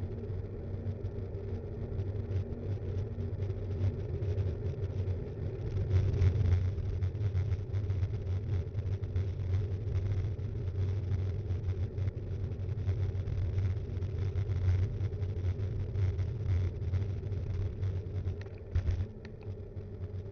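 Riding noise picked up by an action cam mounted on a Btwin Rockrider 5.1 mountain bike: a steady low rumble of tyres and frame vibration with many small rattles and knocks. A sharp jolt near the end, after which it goes a little quieter.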